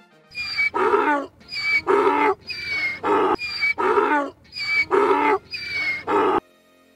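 Donkey braying: six hee-haws in a row, each a high in-breath note followed by a lower out-breath note, stopping about six seconds in.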